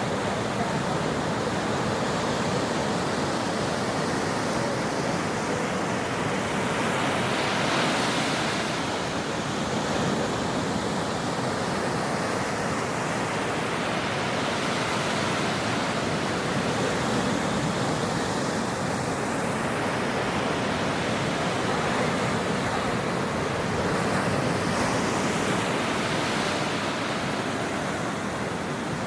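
Ocean surf washing steadily on a shore, with waves breaking and swelling louder about eight seconds in and again near the end.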